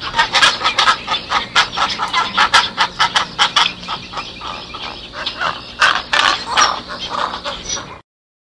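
A group of domestic fowl calling, many short, overlapping calls in quick succession. The sound cuts off abruptly about half a second before the end.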